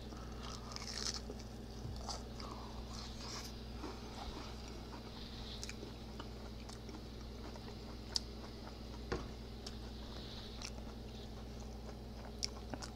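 Close-up chewing of a deep-fried, Hot Cheeto-crusted burrito: a bite, then quiet crunching with a few sharper clicks of the crisp crust.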